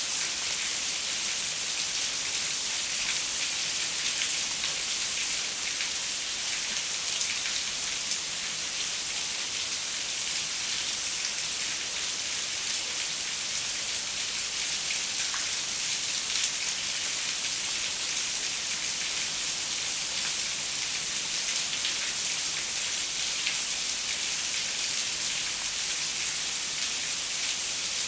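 Steady rain falling on window glass: an even hiss of many drops with fine scattered ticks and no thunder.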